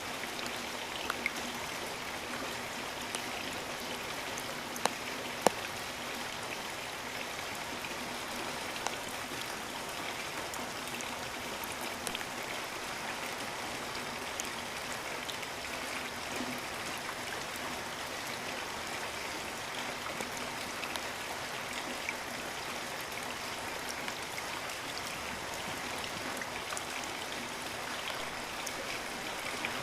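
Steady rainforest rain, a constant even hiss with individual drops clicking close by, a few louder drop hits in the first several seconds.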